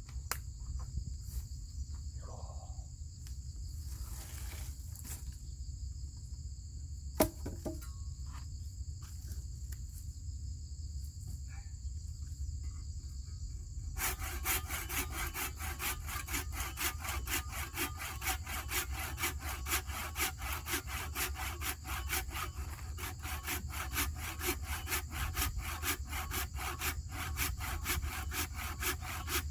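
Insects chirring steadily, with one sharp click about seven seconds in. About halfway through, a hand saw starts cutting wood with rapid, regular strokes.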